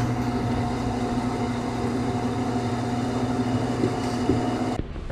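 An electric woodworking machine running with a steady motor hum, cutting off abruptly near the end, followed by a sharp knock.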